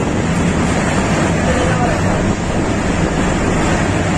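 Metre-gauge train running: a steady rush of track and running noise with wind buffeting the microphone.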